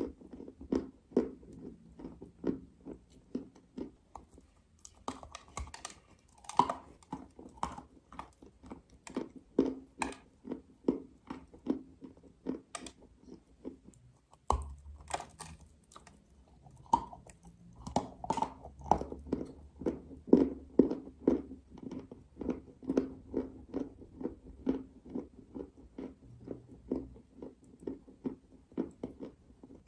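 Dry clay being bitten and chewed close to the microphone: crisp crunches in a steady rhythm of about two a second.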